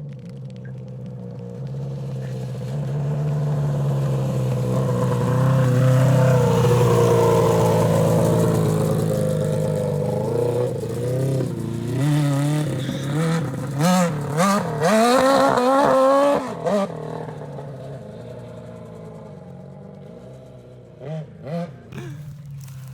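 Suzuki GSX600 inline-four motorcycle engine in a Honda Odyssey ATV, running under throttle. It grows steadily louder, revs up and down sharply several times, then fades, with two short revs near the end.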